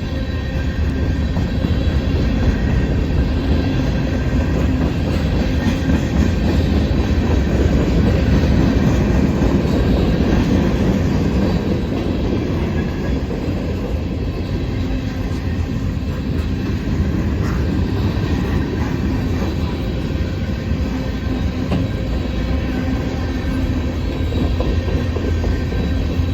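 Norfolk Southern manifest freight train rolling past: a steady, loud rumble of freight-car wheels on the rails, with faint thin squealing tones from the wheels over it.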